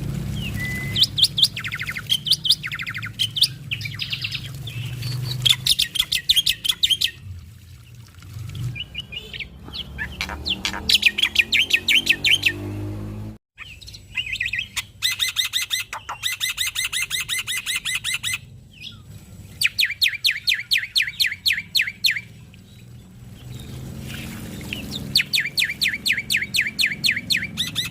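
Male black-winged starling (jalak putih) singing vigorously in bursts of rapid repeated chattering notes, each run lasting a second or three with short pauses between.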